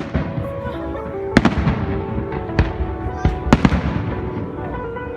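Fireworks going off: several sharp bangs with fading crackle tails at uneven intervals, a quick cluster of them about three and a half seconds in. Music plays underneath.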